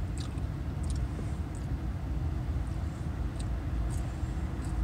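Steady low rumble inside a parked car's cabin from the idling engine, with a few faint light clicks from handling food.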